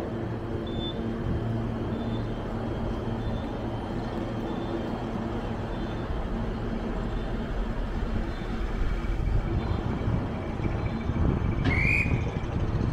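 Electric commuter train at the platform giving off a steady low hum, growing slightly louder late on. A short, high, rising squeal or tone comes near the end.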